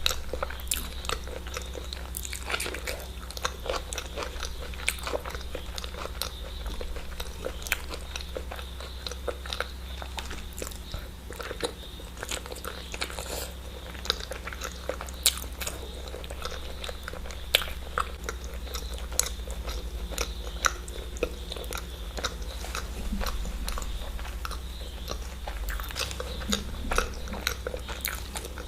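A person chewing and biting eggs close to the microphone, with many small, irregular sharp clicks of the mouth and teeth over a steady low hum.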